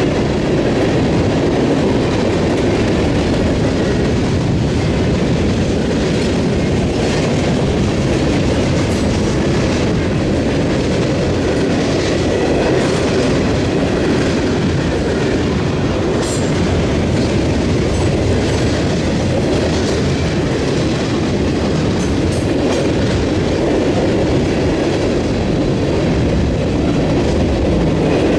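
Freight train rolling past, its wheels clattering over the rails and a diamond crossing.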